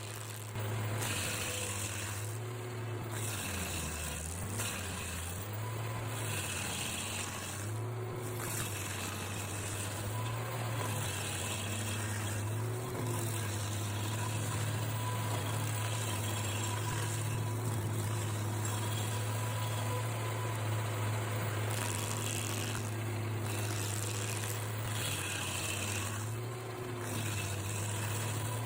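Stump grinder running and grinding a tree stump: a steady low engine hum with a hiss of cutting that swells and fades every two to three seconds as the wheel is swept back and forth.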